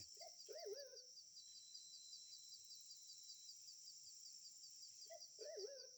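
Two wavering, whistled calls of a green pigeon (punai), one just after the start and one near the end, each about a second long. Under them runs a steady high insect drone with a fast pulsing chirp.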